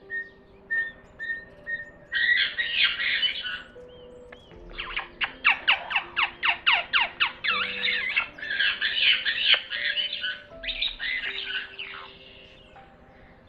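Parrot squawking: loud harsh squawks starting about two seconds in, then a quick run of about a dozen short sweeping calls, then more bursts of squawks that stop about two seconds before the end. Soft background music plays underneath.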